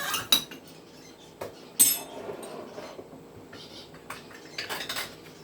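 A spoon clinking and tapping against dishes as sauce is served onto stuffed peppers: a few scattered sharp clinks, the loudest about two seconds in.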